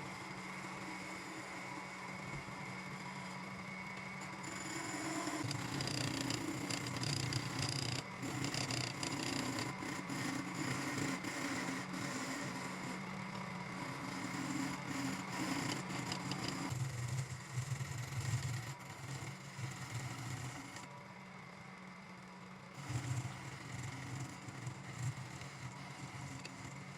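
An electric wood lathe motor runs steadily, and a turning tool cuts and scrapes against the spinning root wood in long stretches from about five seconds in, easing off briefly now and then.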